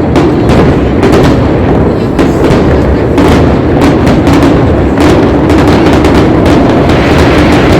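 Aerial fireworks going off in a dense, rapid barrage of loud bangs, one after another with no break.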